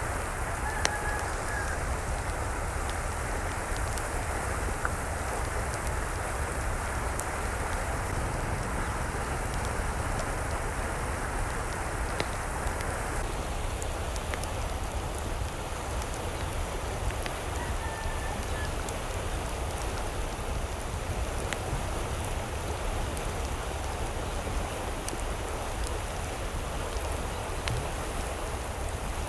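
Steady hiss of falling or running water, with scattered sharp drop-like clicks. Two faint, brief chirps come through, one about a second in and one just past the middle.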